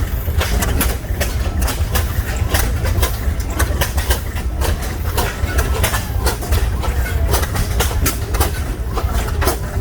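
Several large single-cylinder oilfield engines running at once, their firing strokes overlapping into an uneven, steady beat over a deep low rumble.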